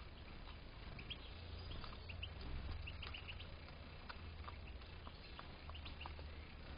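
European goldfinches giving scattered short chirps and twitters, faint, over a steady low hum.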